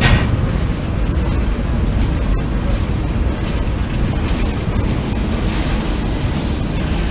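Freight train cars rolling past, a loud steady low rumble with a brief crackle at the start.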